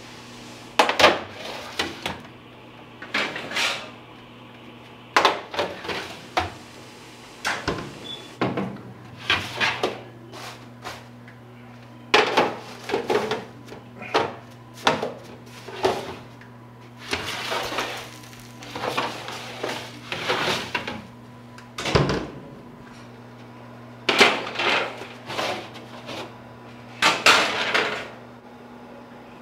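Kitchen pans, trays and utensils being handled: repeated clinks, knocks and clatter in short spells every second or two, over a steady low hum.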